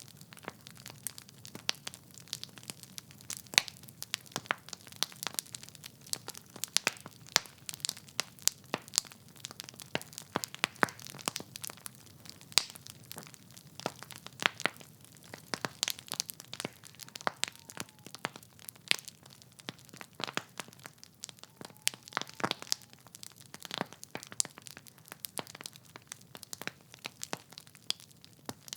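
Wood fire in a fireplace crackling: many irregular sharp pops and snaps from the burning logs over a soft low rush of flame.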